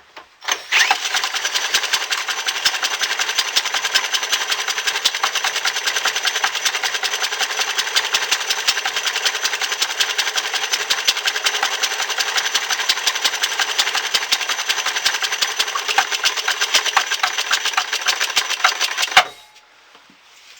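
Small four-stroke Leek gas engine, propane-fuelled with glow plug ignition, spinning with a rapid, even clatter. The clatter starts about a second in and cuts off sharply with a knock near the end.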